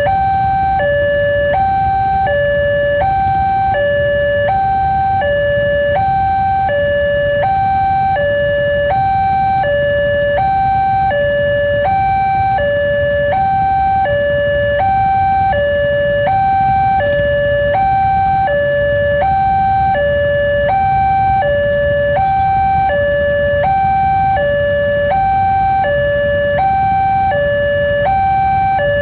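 Railway level-crossing warning alarm sounding continuously: two tones, high and low, alternating evenly about every three-quarters of a second, warning that a train is approaching. A steady low rumble of traffic runs underneath.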